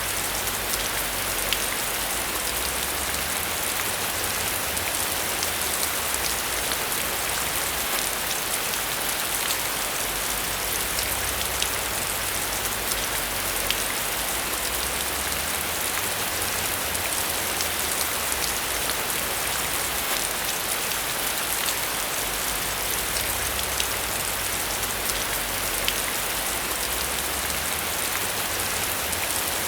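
Steady rain falling, with a dense patter of individual drops striking a surface and a low rumble underneath.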